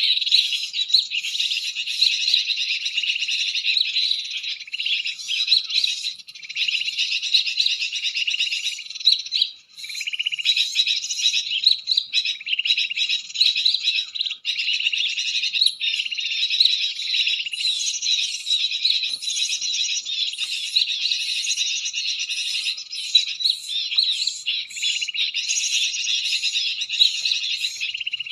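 Cinereous tits (gelatik batu) calling: a dense, nearly unbroken stream of rapid high chirps, pausing briefly about six and nine seconds in.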